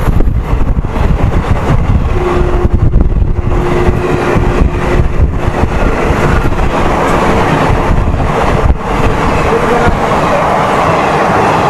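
Loud, steady running noise of a moving Indian Railways passenger express train, its wheels rumbling on the track.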